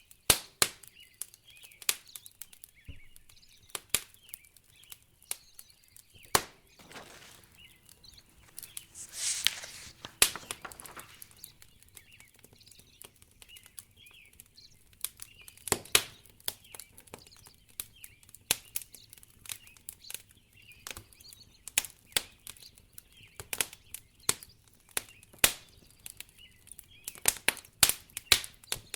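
Wood fire crackling in a fireplace, with irregular sharp pops and snaps throughout. A soft hiss swells up and fades away about a third of the way in.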